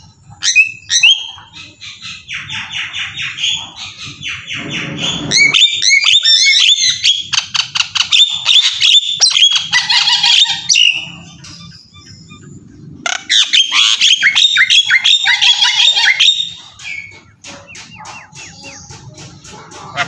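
Birds calling in three long bursts of rapid, repeated chirping notes, with a faint low hum underneath.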